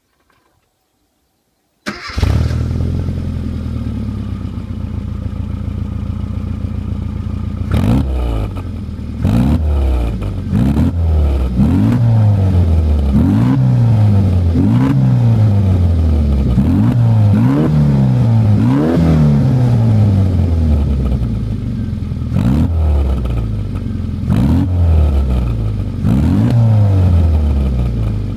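Rover Mini Cooper 1.3i's 1275 cc A-series four-cylinder engine, breathing through a DELTA centre twin-exit aftermarket muffler. It comes in abruptly about two seconds in and idles. From about eight seconds in it is blipped a dozen or so times, roughly every second and a half, before settling back to idle near the end.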